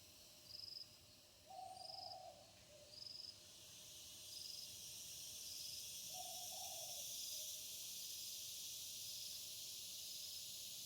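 An owl hooting: several short low hoots in the first few seconds and one more about six seconds in, over a steady hiss. A faint high chirp repeats about once a second.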